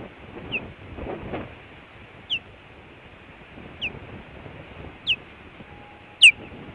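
Osprey giving a series of five short, high, down-slurred chirps about every second and a half, growing louder, the last the loudest near the end. A steady low rumble of wind and distant traffic runs under them.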